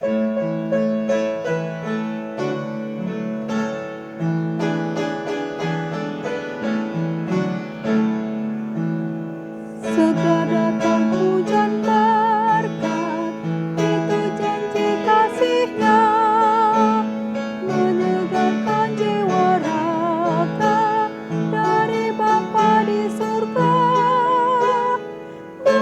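Piano playing a hymn introduction, then a woman's voice singing the hymn with vibrato over the piano from about ten seconds in.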